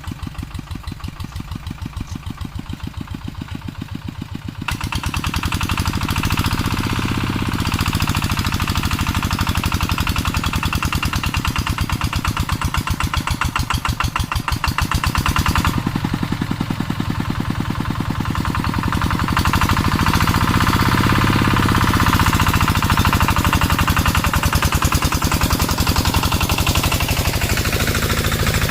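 Two-wheel walking tractor's single-cylinder diesel engine running with a fast, even chug. It grows louder and noisier about five seconds in, and its pitch swells and eases a couple of times after that.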